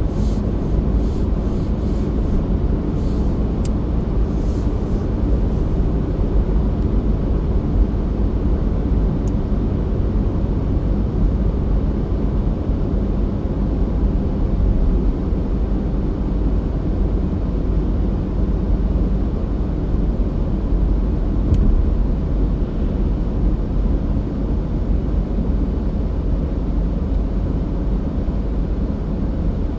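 Steady low rumble of a car driving on a winter road, heard from inside the cabin, with engine and tyre noise. A few faint clicks come in the first seconds and single light ticks later.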